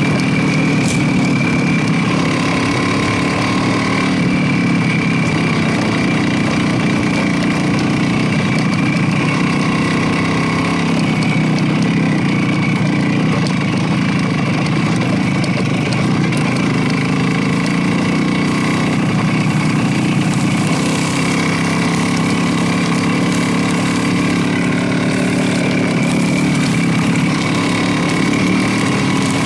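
Motorcycle engine running at a steady, even pitch.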